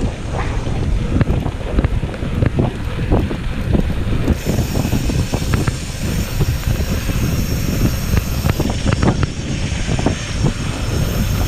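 Wind buffeting a helmet-mounted action-camera microphone while a mountain bike rolls downhill over rough road, with a constant clatter of the bike's frame and parts rattling over the bumps.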